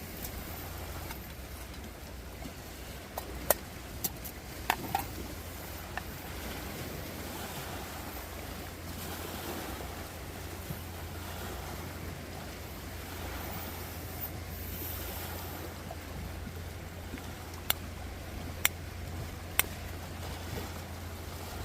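Wind rumbling on the microphone, with scattered sharp snaps: a few about four seconds in and three more near the end.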